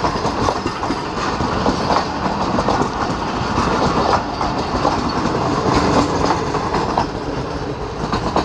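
Passing train rolling at speed: steady running noise with frequent short knocks of the wheels clattering over rail joints.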